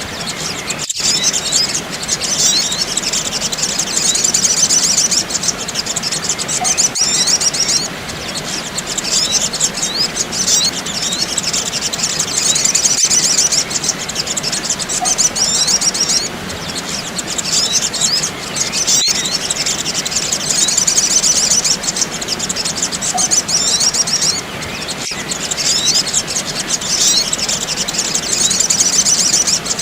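Dense, rapid high-pitched chirping of sogok ontong birds (little spiderhunters), a lure-call recording that loops every six seconds or so with a short break at each repeat.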